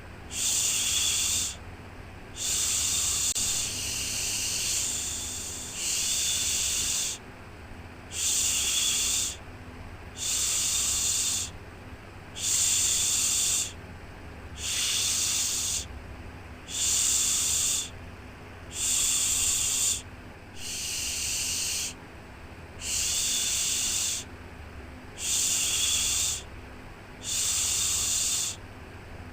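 Rhythmic shushing 'shhh' sound, used to soothe a baby to sleep: a hiss swelling and stopping about once every two seconds, each shush lasting roughly a second, with one longer shush near the start. A faint steady low hum sits underneath.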